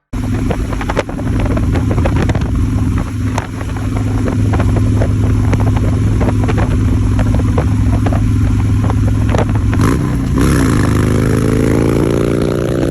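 Harley-Davidson V-twin motorcycle engine running steadily while riding, over a rush of wind noise. About ten seconds in, the engine note dips briefly, then climbs steadily as the bike accelerates.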